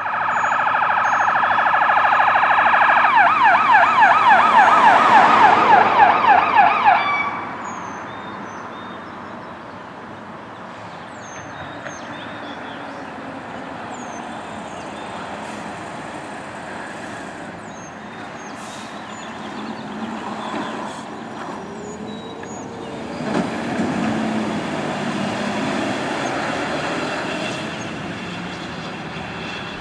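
Fire engine responding with its warning devices going: a loud steady multi-tone horn blast, then a fast repeating electronic siren sweep starting about three seconds in. About seven seconds in it drops off sharply to the quieter sound of the truck and its siren moving away, with a rise and fall in pitch around two-thirds of the way through.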